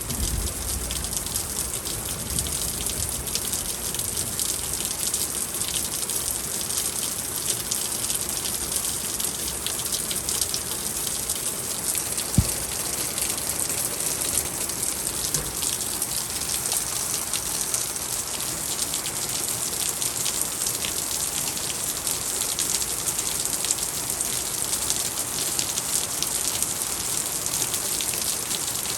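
Heavy spring rain pouring down in a steady downpour, with a dense patter of drops striking surfaces. A low rumble dies away in the first second or two, and there is one sharp knock about twelve seconds in.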